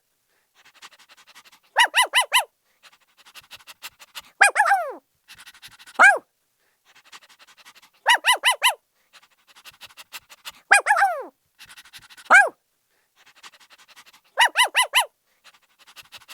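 A puppy barking in high-pitched yips. A quick run of four yips is followed by two single yelps that fall in pitch, and the pattern repeats about every six seconds. Faint quick panting fills the gaps between.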